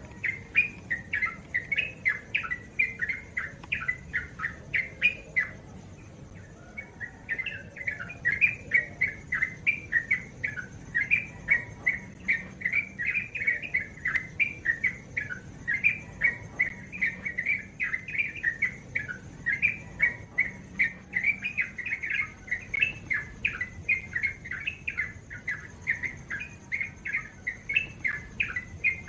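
Yellow-vented bulbul (crukcuk) singing its morning song, a long run of quick, bubbling chirped notes that pauses briefly about six seconds in and then carries on.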